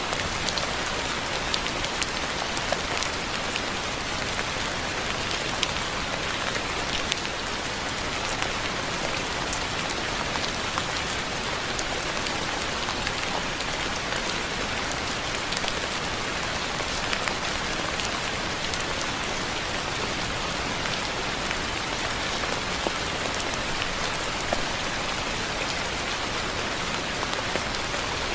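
Steady rain falling on a surface, a continuous even hiss with scattered sharper drop ticks throughout.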